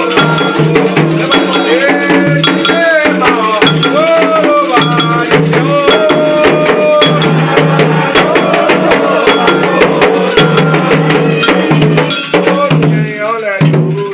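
Afro-Brazilian ritual music for the orishas: a metal bell struck in a steady quick pattern over drums, with voices singing. The music thins out and drops near the end.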